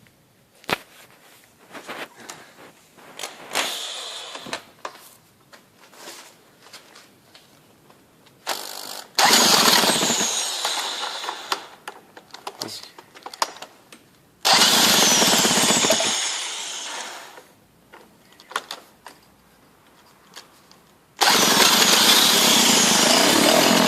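Warm Peugeot 103 50cc two-stroke moped engine being started without choke. After scattered clicks and knocks, it catches about nine seconds in and dies away, catches again about five seconds later and fades, then fires about 21 seconds in and keeps running steadily.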